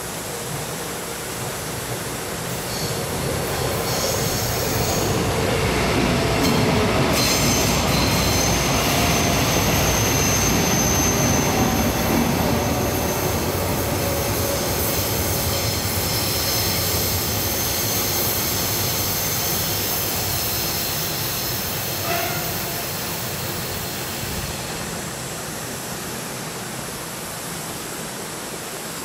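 Taiwan Railway electric multiple-unit commuter train passing by: the rumble of wheels on rail builds over a few seconds and then fades away. During the loudest stretch the wheels give a high-pitched squeal.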